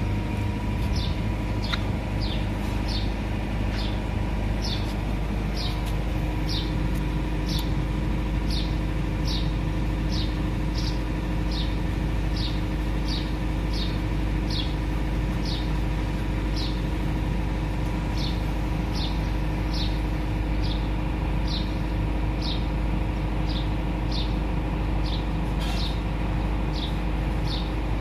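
A bird repeats a short, high, falling chirp about once a second over a steady low rumble.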